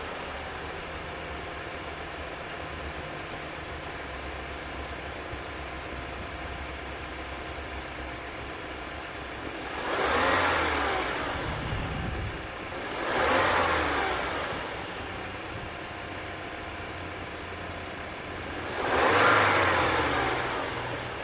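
2018 Audi A5 Coupe's 2.0-litre turbocharged four-cylinder idling steadily through its exhaust, then revved three times: about ten seconds in, again a few seconds later, and near the end. Each rev rises and falls back to idle.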